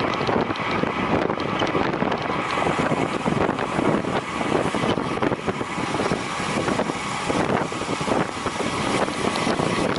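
Wind rushing over the microphone of a camera carried by a road cyclist riding at speed, a loud steady rush with constant flutter.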